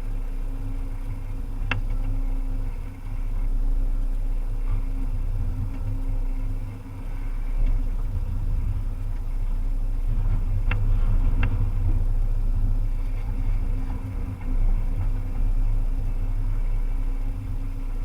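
Volvo EC300EL excavator's diesel engine running steadily at working load, with three sharp knocks: one about two seconds in and two close together around eleven seconds.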